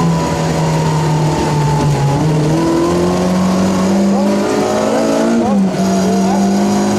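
Rally car engine heard from inside the car, running hard at high revs under load. Its pitch steps up about three seconds in and dips briefly and recovers near six seconds, as gears change.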